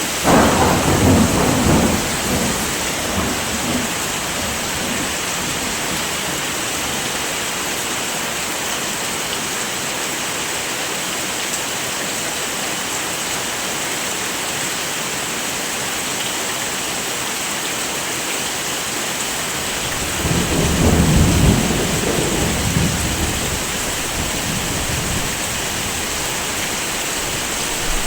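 Heavy rain falling steadily, with two low rolls of thunder: one right at the start lasting about two seconds, and another about twenty seconds in lasting a few seconds.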